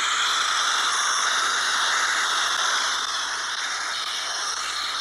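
Steady, loud high-pitched hiss with several faint whistling tones running through it, easing off slightly about three seconds in.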